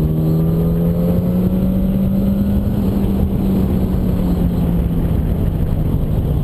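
Yamaha R1 inline-four motorcycle engine running under way, its pitch rising gently over the first few seconds and then holding steady, with wind and road rumble on the helmet microphone.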